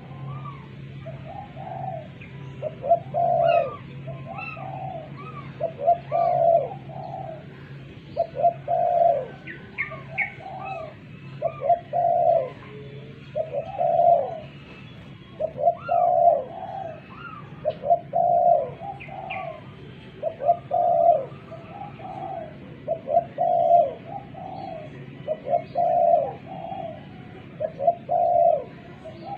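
Spotted dove (tekukur) cooing over and over, one phrase about every two seconds, with fainter high chirps of small birds behind it.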